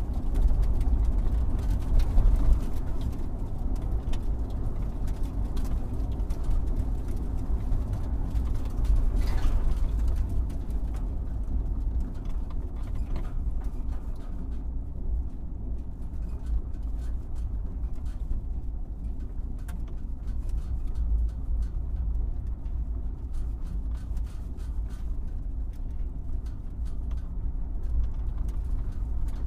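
Excavator engine running with a steady low rumble.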